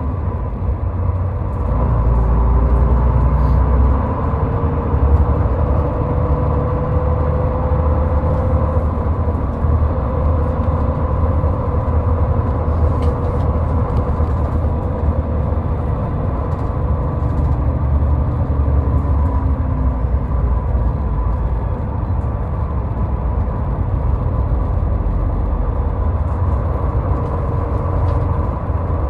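Steady low rumble of a car driving at highway speed, with tyre and engine noise and a faint steady whine over it.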